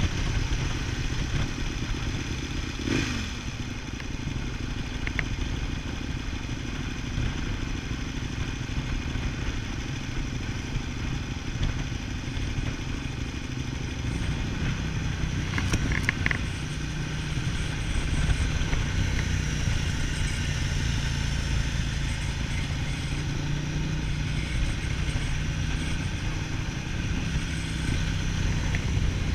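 V-twin motorcycle engine running under way, heard from the bike itself, its note settling into a steady low drone from about halfway.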